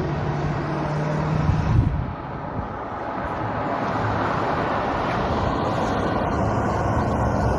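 1968 Pontiac Laurentian's V8 engine running as the car is driven, with a steady low hum for about the first two seconds, then a rushing road and engine noise that slowly builds.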